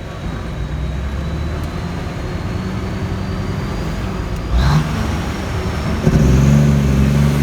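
Kenworth T800 diesel truck engine running steadily while driving, with a brief louder sound about four and a half seconds in; the engine gets louder and stays strong from about six seconds in.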